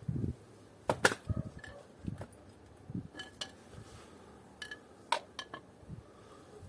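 Metal parts of an air conditioning unit being handled during disassembly: scattered, irregular clinks and knocks, the loudest about a second in.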